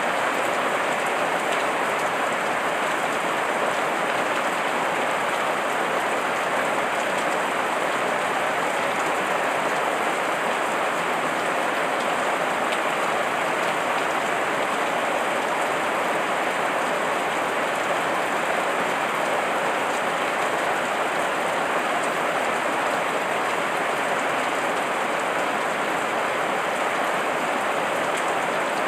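Heavy rain falling steadily, a dense, even hiss of drops without a break.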